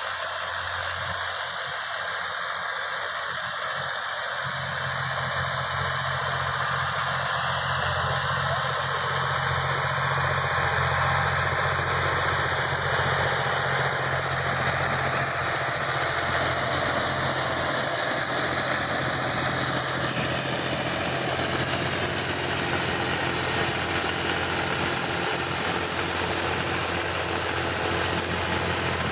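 Tractor engine running steadily with an even low drone, growing a little louder a few seconds in and then holding steady.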